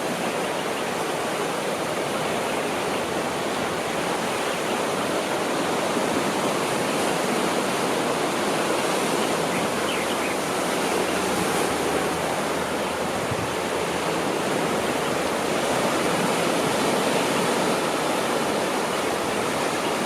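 Steady rushing water noise with gentle swells in level.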